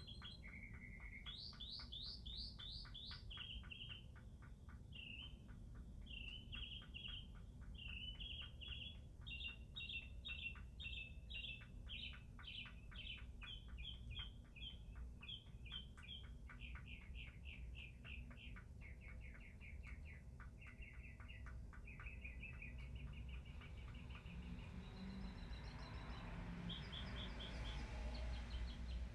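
A songbird singing a long, unbroken string of quick chirped phrases, each repeated several times before it switches to a new one, over a steady low background rumble. Near the end a soft rushing sound swells up.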